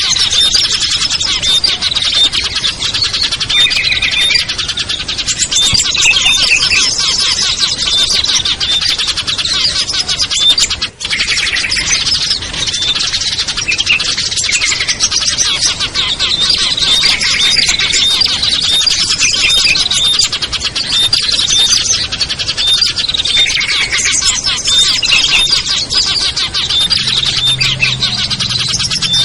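Dense, loud chorus of many small songbirds chirping and calling over one another without pause, a mixed lure recording of species such as prinias and bulbuls used to draw wild small birds down. The chatter breaks off for an instant about 11 seconds in.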